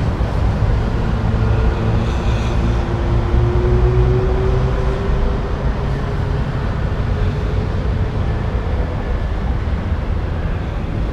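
Street traffic: a steady rumble of vehicle engines and tyres, with one engine rising slowly in pitch in the first half as it pulls away.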